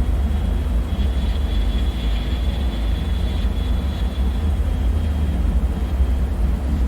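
Low, steady rumbling drone of a dark bunker ambience, with a faint thin high tone held for a few seconds in the middle.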